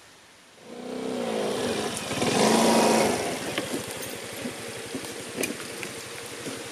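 Small scooter engine starting about a second in, revving briefly, then running steadily.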